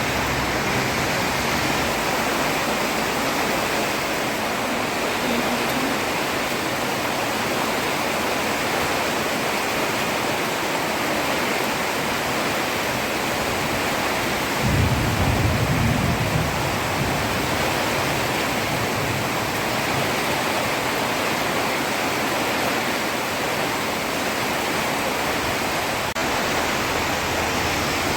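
Heavy rain falling steadily on a road, an even hiss. About halfway through a low rumble swells briefly, then fades.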